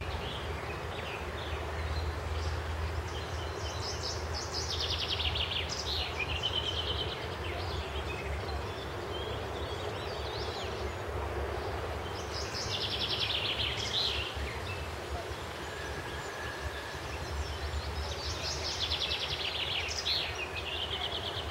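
A songbird singing three times over steady outdoor background noise with a low rumble; each song is a fast trill about two seconds long that drops in pitch.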